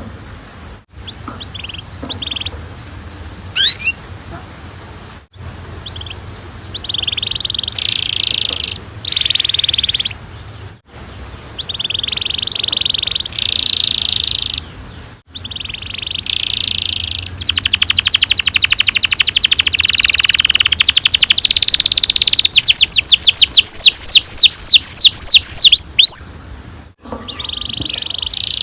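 Domestic canary singing in phrases of rolls and trills. The longest is a fast roll of rapidly repeated notes that runs for several seconds in the second half and ends in a run of sweeping whistle-like notes.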